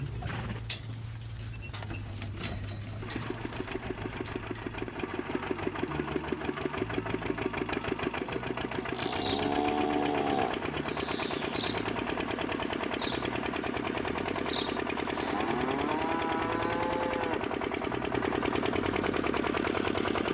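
Small diesel engine chugging in a steady, rapid rhythm as it drives a water pump. Two drawn-out animal calls come in partway through, with a few short high chirps between them.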